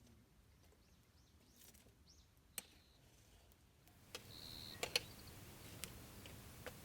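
Quiet background with a few sharp clicks or taps, the loudest about five seconds in, and a brief high steady note just before it.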